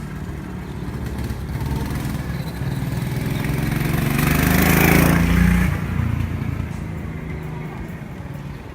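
Small go-kart engine running. It grows louder to its loudest about four to five seconds in, then eases off.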